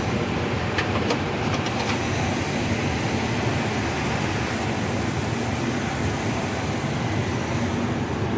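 Steady, loud mechanical rumble and noise with no clear pitch, with a few light clicks about a second in.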